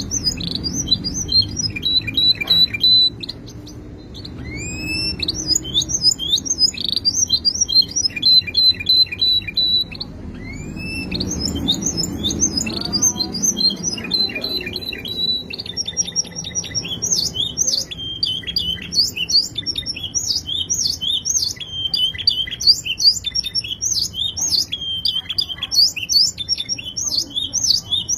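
Domestic canary singing: long phrases of rapid trills and rolls, each opening with a quick upward-sweeping note. There are brief pauses about four and about eleven seconds in, and from about sixteen seconds on the song runs without a break.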